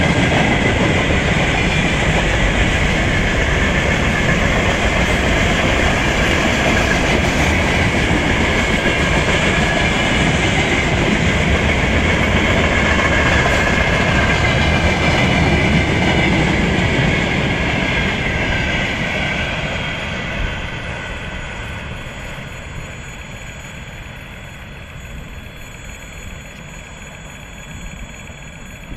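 Freight train wagons (container flats, gondolas and tank cars) rolling past at speed, a steady rush of wheel and rail noise. From about two-thirds of the way in it fades away steadily as the last wagons pass and the train recedes.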